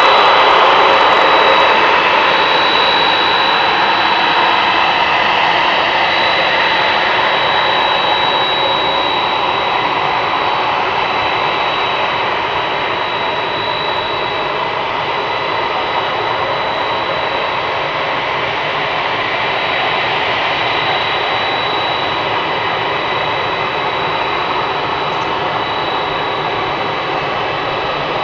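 Boeing 767 jet engines running: a steady rushing roar with a sharp, high, steady whine over it, slowly getting quieter.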